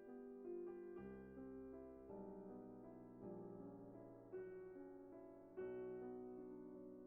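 Quiet background music: soft electric-piano style keyboard playing slow sustained notes and chords.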